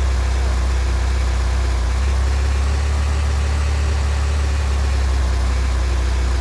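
Vehicle engine idling with a steady low hum, over a steady hiss of noise.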